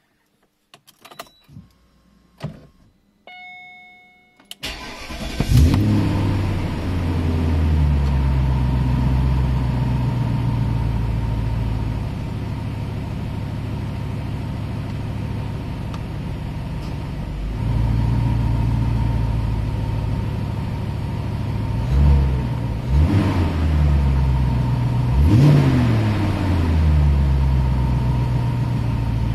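Ignition clicks and a short electronic chime, then the BMW 740iA's V8 cranks and starts about four and a half seconds in and settles into a steady idle. Near the end the engine is briefly revved a few times, the pitch rising and falling each time.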